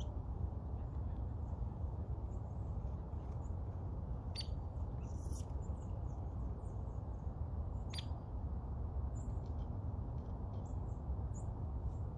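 Wild birds chirping in short, scattered high notes, a few of them louder about four to eight seconds in, over a steady low background rumble.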